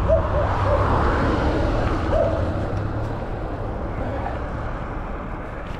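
A motor vehicle's engine running with a steady low hum that fades away after about three seconds, with a few faint short chirps over it.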